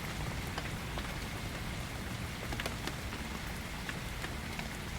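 Steady rain falling as an even hiss, with scattered single drops ticking through it.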